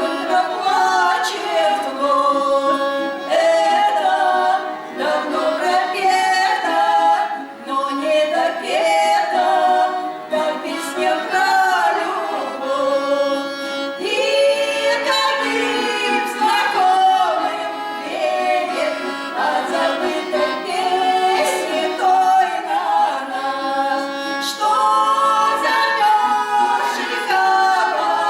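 A choir singing a song, several voices together.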